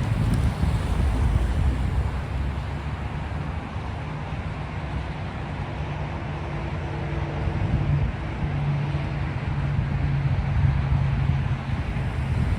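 Freight train rolling past at close range, a steady low rumble of wheels on the rails, with some wind on the microphone. In the second half a faint steady hum joins the rumble.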